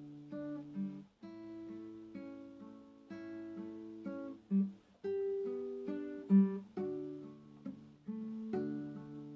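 Acoustic guitar played slowly and softly, plucked notes and arpeggiated chords that ring and fade, with brief pauses about a second in and again near the middle.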